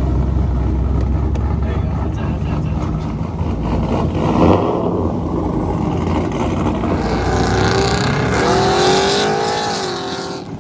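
Truck engine running with a heavy low rumble, then revving in the second half, its pitch climbing and then dropping away near the end.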